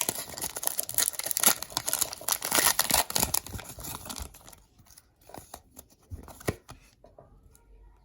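Foil booster-pack wrapper being torn open and crinkled for about four seconds, then a few light taps and rustles as the cards are handled, fading near the end.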